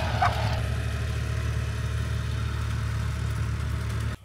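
A vehicle engine idling steadily, cutting off suddenly about four seconds in. A dog barks once right at the start.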